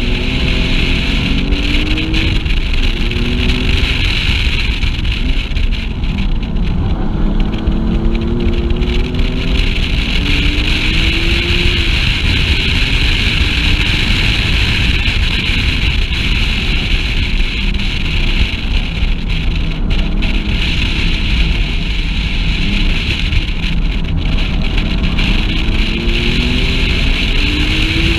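Wind buffeting an outside-mounted microphone at track speed, over a Porsche sports car's engine that rises in pitch several times as it accelerates through the gears, dropping back between the pulls.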